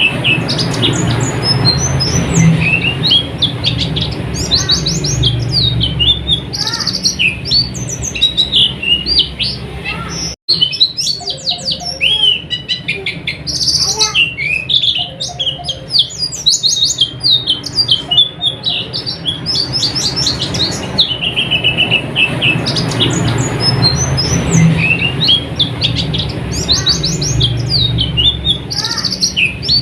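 White-eyes (pleci) singing: a continuous stream of rapid, high chirping twitters and trills, over a low background rumble. The sound cuts out for an instant about ten seconds in.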